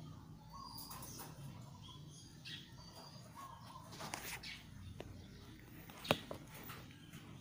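Faint, scattered short chirps, like birds in the background, with a few soft knocks and one sharp click about six seconds in.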